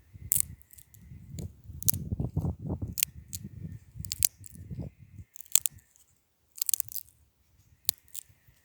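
Close-up crunching and crackling with sharp clicks, irregular; it stops about five seconds in, leaving a few isolated clicks.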